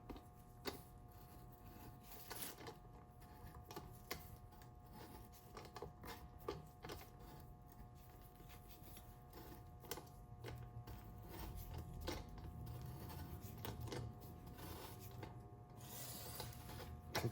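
Faint, irregular clicks and creaks of a steel M14 × 1.5 tap being turned by hand with a 3/8-inch socket, cutting new threads into the stripped oil drain hole of a Harley Sportster primary case, over a faint steady hum. A louder knock comes right at the end.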